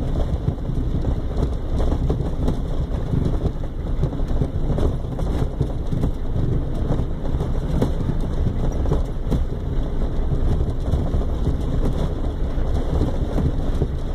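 Vehicle driving slowly over a rough off-road trail, heard from inside the cabin: a steady low engine and tyre rumble with frequent irregular knocks and rattles as it hits bumps.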